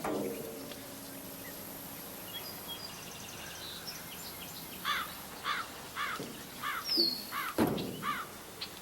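A bird giving a series of short calls, about two a second, over a faint outdoor background, with a dull thump near the end.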